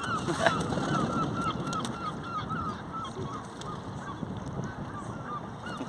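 A flock of geese honking over and over, the calls thinning out and growing fainter toward the end.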